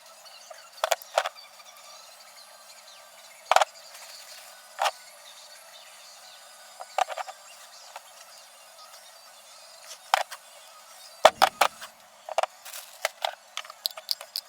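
Hand tools and small metal parts being handled during motorcycle brake work: irregular sharp clicks, taps and clinks, with a brief cluster of knocks a little past the middle and a quick run of small clicks near the end.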